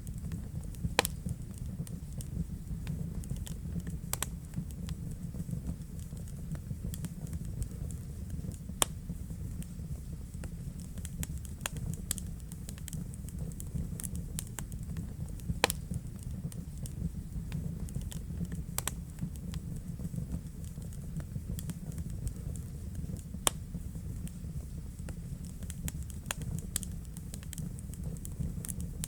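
Fireplace fire crackling: scattered sharp pops and snaps over a steady low rumble, with a few louder pops standing out now and then.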